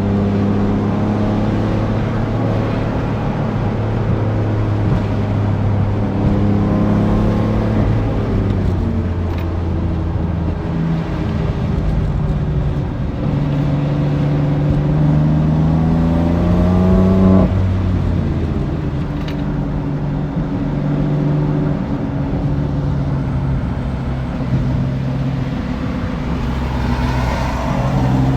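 BMW F82 M4's twin-turbo straight-six running under way, its pitch easing and climbing with the throttle. One pull climbs to a gear change about 17 seconds in, where the pitch drops sharply, and the engine pulls up again near the end.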